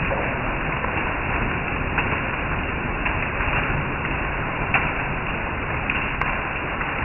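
Steady rain falling on tree foliage: a continuous even hiss with a few sharper drop ticks scattered through it.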